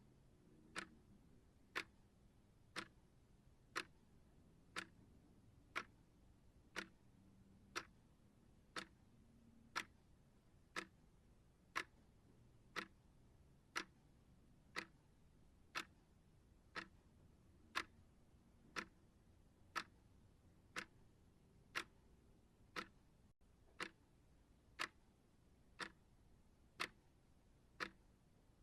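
Steady timer ticking, one sharp tick every second, over faint background hiss.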